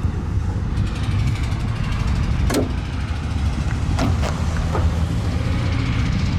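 A car's rear door latch clicking and the door knocking as it is opened, heard as a sharp click about two and a half seconds in and a cluster of clicks and knocks about four to five seconds in, over a steady low rumble.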